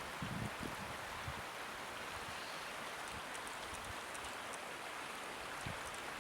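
Floodwater flowing steadily as an even, soft rush, with a few faint wind buffets on the microphone in the first second.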